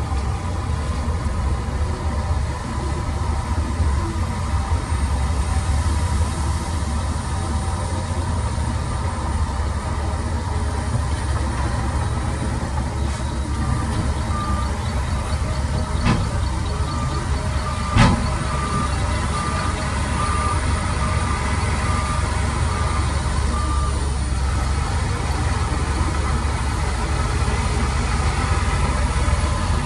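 Heavy diesel machinery engine running steadily at a low rumble. In the middle, a reversing alarm beeps in a steady series for about ten seconds as a machine backs up. A single sharp knock stands out partway through.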